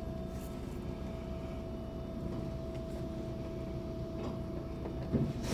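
Automatic car wash machinery heard from inside a car's cabin: a quiet, steady low rumble with a faint constant hum, between wash stages. Near the end the sound gets louder again as the next stage starts.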